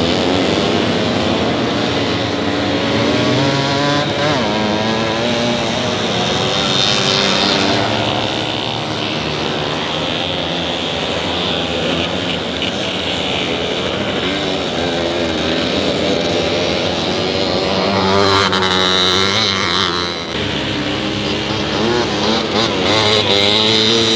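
Several vintage motorcycle engines racing on a snowy track, revving up and down as they pass, their pitches overlapping and rising and falling.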